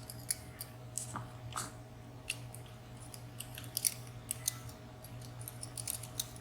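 Light metallic clicks and ticks of small lock parts (pins and springs) being handled as a WSW W10 padlock is disassembled. The clicks come irregularly, a cluster of them about four seconds in, over a steady low hum.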